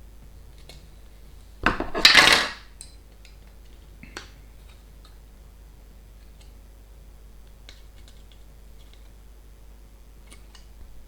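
Small plastic parts and tools being handled on a workbench: a short, loud clatter about two seconds in, then scattered light clicks.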